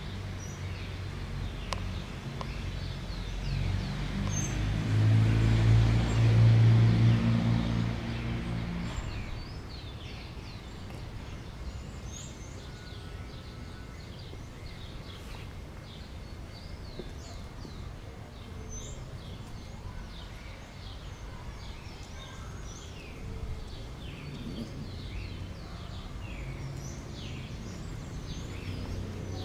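Birds chirping, many short high chirps scattered through, over outdoor background noise. A low humming rumble swells and fades, loudest around five to eight seconds in.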